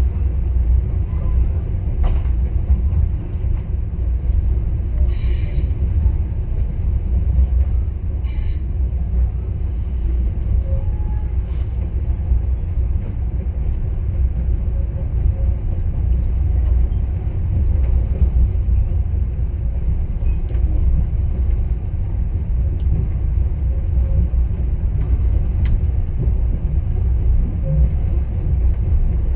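Passenger train running along the track, a steady low rumble from the wheels and running gear. A few short, sharp sounds cut through it, about five and about eight seconds in.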